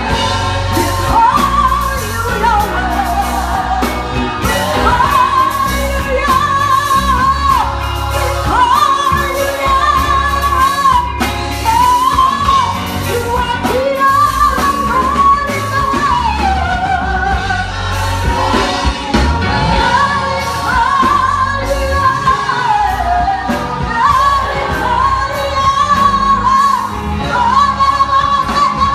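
Church worship music: voices singing a praise song with long held notes over a band with bass and drums.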